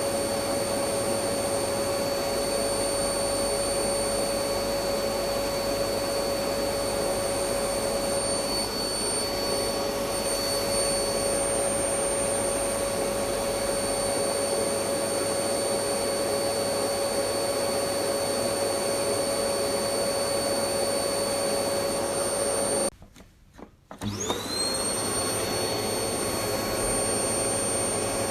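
Electric vacuum cleaner running steadily, a constant motor whine over a dense airflow rush. Near the end it cuts out abruptly for about a second, then comes back with the whine rising as the motor spins up to speed.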